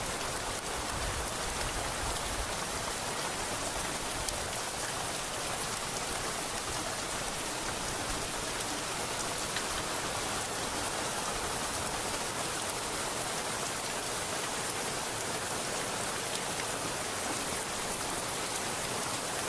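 Steady rain falling: an even, constant hiss of many drops with scattered faint ticks of individual drops.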